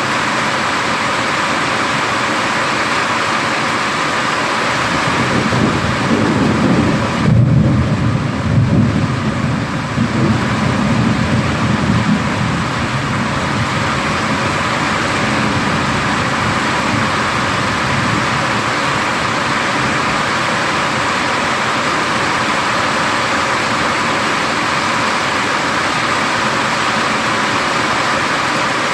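Steady heavy rain with a rumble of thunder that swells about five seconds in, is loudest a couple of seconds later, and dies away after about twelve seconds.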